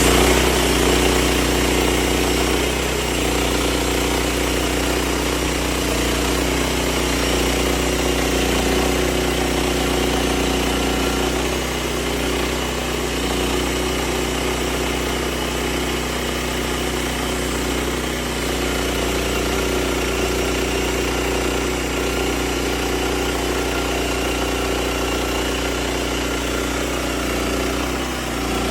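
A sawmill's engine running steadily.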